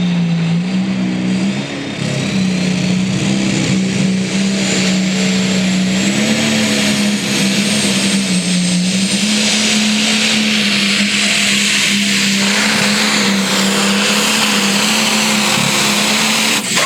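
10,000-pound Pro Stock pulling tractor's engine at full throttle, dragging the weight sled down the track. Its note is held steady for the whole pull and rises slightly a few times.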